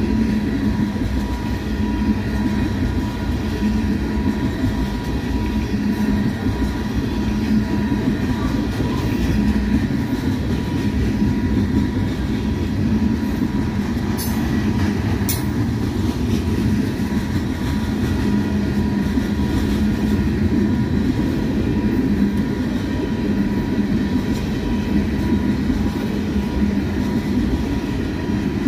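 Freight train's tank cars and covered hopper cars rolling past at speed: a steady rumble and rattle of wheels on the rails, with two brief sharp sounds about halfway through.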